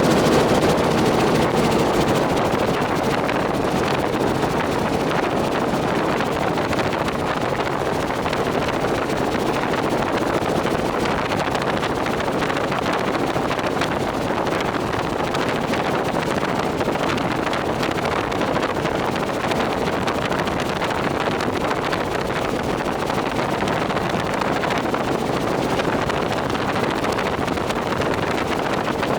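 Robinson R44 helicopter in flight with its doors off: steady engine and rotor noise mixed with wind rushing over the microphone.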